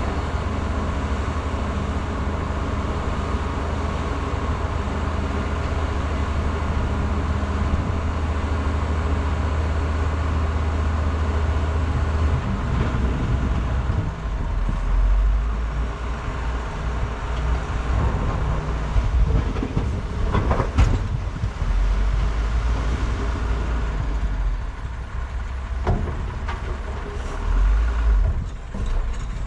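Diesel engines of heavy earthmoving machinery running. The engine note is steady at first, then changes and varies about twelve seconds in, with a few sharp knocks later on.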